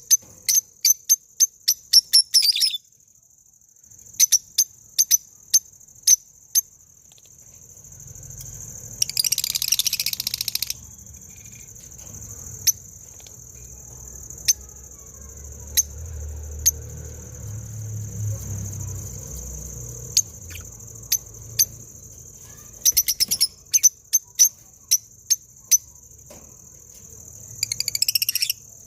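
Short, sharp, high chirps come in runs of a few a second, over a steady high-pitched insect trill. About nine seconds in there is a harsher rasping call lasting under two seconds, and dense flurries of chirps come near the end.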